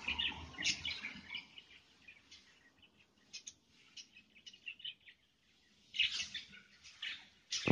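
Small birds chirping faintly in scattered short, high calls, louder near the end.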